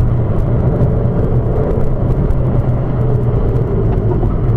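A car being driven, with a steady low drone of engine and road noise that holds unchanged throughout.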